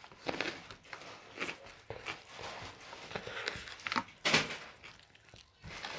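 Irregular soft clicks, scrapes and chewing noises of someone eating, with a louder knock about four seconds in.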